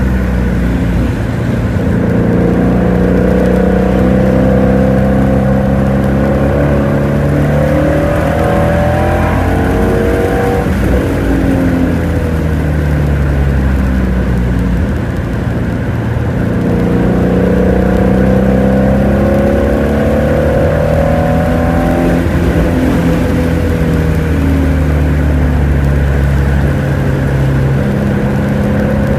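Shelby GT350's V8 engine running hard on a lap, repeatedly climbing in pitch as it accelerates through the gears and dropping back as it slows for corners.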